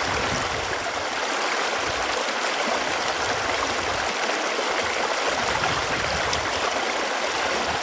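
Running water flowing steadily, an even rush of noise with no change.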